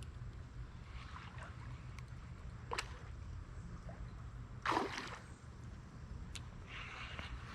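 Water splashing in a shallow creek, with two sharp splashes about three and five seconds in, the second the louder, over a steady low rumble.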